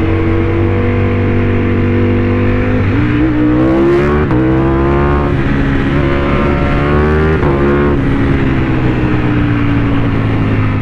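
Motorcycle engine running under way. The pitch holds steady at first, then climbs in a few rising pulls, broken by short drops like gear changes, from about 3 to 8 seconds in. Near the end the pitch falls gently as it eases off.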